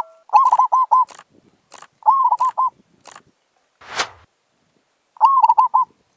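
Zebra dove calling: three short phrases of quick, bubbling cooing notes. A sharp click sounds about four seconds in.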